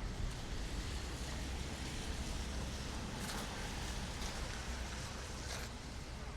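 Steady outdoor city street noise, with a few sharp footsteps on the pavement about three, four and five and a half seconds in.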